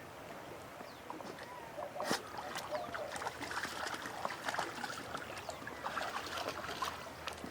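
Low-flowing creek water trickling, with many small clicks and taps from about two seconds in.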